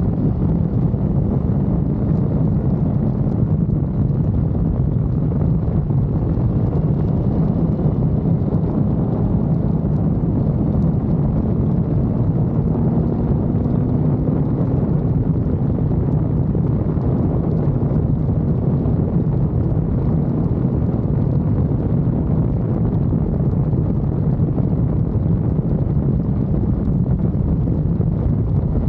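Steady wind rush buffeting the microphone of a sport motorcycle riding at speed, with the bike's engine running underneath.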